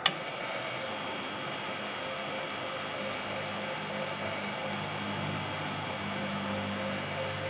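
A sharp click, then a machine running steadily, with a low hum that wavers in strength.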